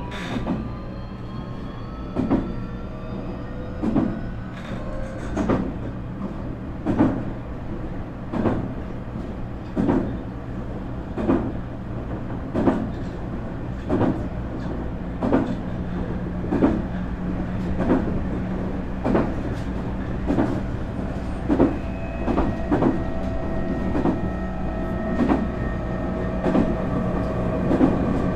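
Nankai 8300 series electric train running, heard from its motor car. Its Hitachi two-level IGBT VVVF inverter and Toyo Denki TDK-6315-A totally enclosed induction motors give a whine that rises in pitch over the first few seconds. The wheels clack over rail joints about once every second and a half, and steady motor tones come in about halfway through.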